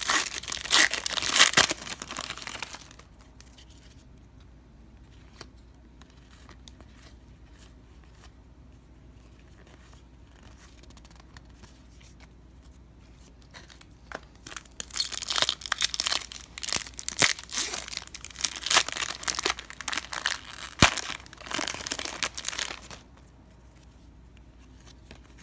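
Baseball card pack wrappers being torn open and crinkled, in two bouts: briefly at the start, then again for several seconds from about the middle, with a quiet stretch between.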